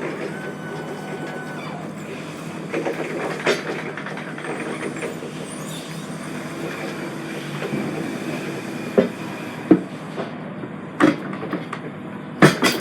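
A lorry running, heard from inside the cab as a steady hum and noise, with a few sharp knocks and rattles in the second half.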